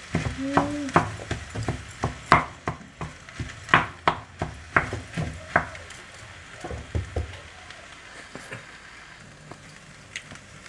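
Spatula stirring and tossing fried rice in a hot pan, knocking and scraping against the pan in irregular strokes, with a faint sizzle. The knocks thin out after about six seconds and it goes quieter.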